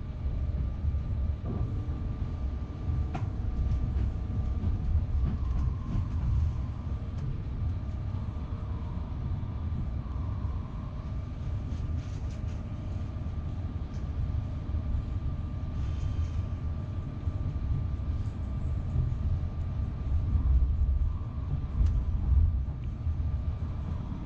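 Southeastern Class 395 Javelin electric train running: a steady low rumble with a faint steady whine above it.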